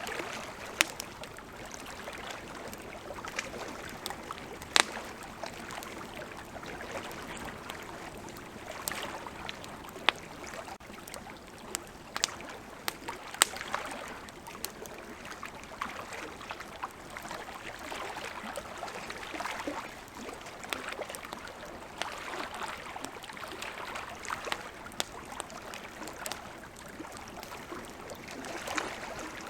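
Wood campfire crackling, with irregular sharp pops and snaps, over a steady wash of flowing river water.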